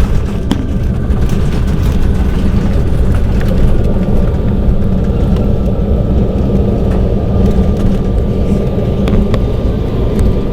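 Embraer 190 airliner on its landing rollout just after a hard touchdown, heard from inside the cabin: a loud, steady roar and rumble of engines and wheels on the runway, with scattered rattles and clicks from the cabin.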